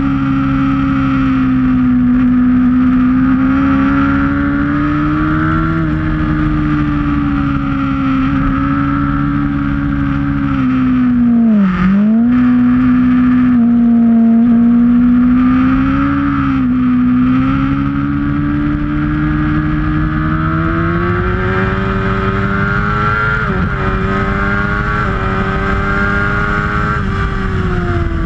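Sportbike engine heard onboard, running at an easy cruising pace. Its note holds fairly steady, dips sharply and briefly about twelve seconds in as the throttle closes for a corner, then climbs steadily near the end as the bike accelerates, over a steady rush of wind.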